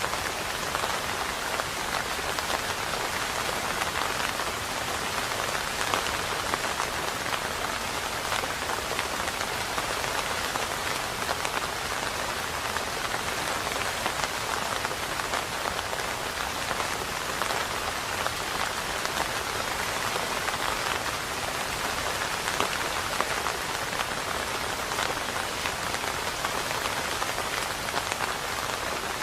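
Steady rain falling, an even wash of many small drop hits with no change in intensity.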